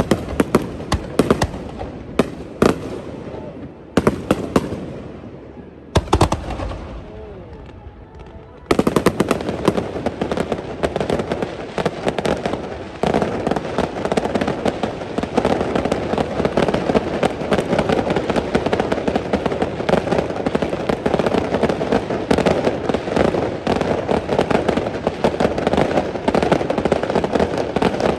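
Aerial firework shells bursting: separate booms and bangs for the first eight seconds or so, then from about nine seconds a dense, continuous crackle of many rapid small pops.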